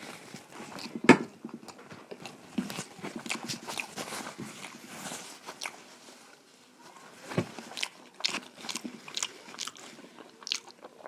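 Close-up eating sounds: a person chewing and biting keema noodles, with irregular wet mouth clicks and smacks and one sharp click about a second in.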